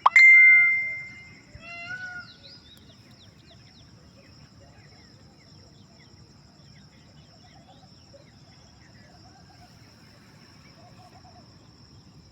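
Animal calls: a loud held call lasting about a second, then a shorter arched call, followed by faint scattered chirping over a steady high-pitched hum.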